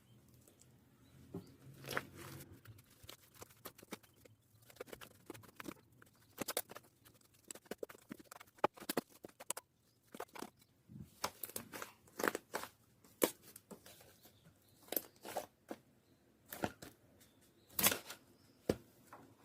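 Homemade fluffy slime being squeezed and poked by hand, giving irregular sharp sticky clicks and pops, a few a second.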